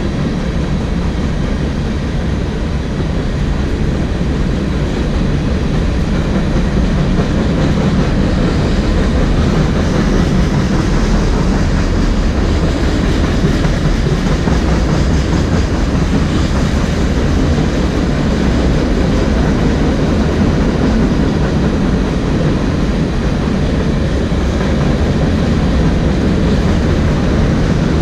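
A train rolling past, its wheels running on the rails in a loud, steady rumble that grows slightly louder a few seconds in and then holds.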